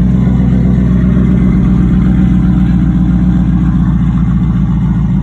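Pickup truck's engine idling steadily through its exhaust, a loud, low, evenly pulsing note.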